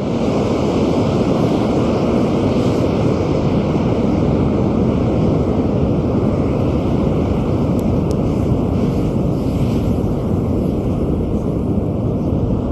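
Scrap rocket propellant grains burning in the open: a loud, steady rushing roar of flame that holds level throughout.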